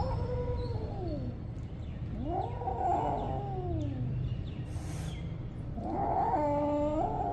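Domestic cat meowing: three long, drawn-out meows, each rising and then falling in pitch, the third held level in the middle before it falls.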